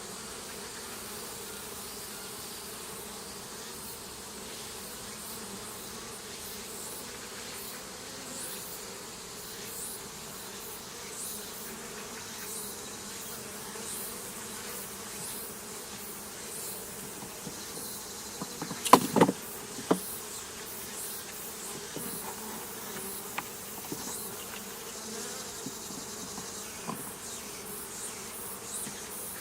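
Honeybees buzzing steadily in a mass, with individual bees whizzing past. A short cluster of sharp knocks about two-thirds of the way through is the loudest sound.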